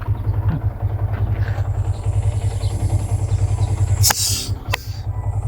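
Motorcycle engine running steadily with an even low pulsing rumble, and two sharp knocks about four seconds in.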